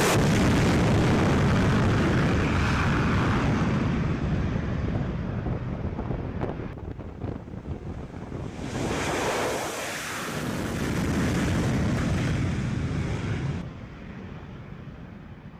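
Rushing noise like wind buffeting the microphone, swelling again about halfway through and dropping off sharply near the end.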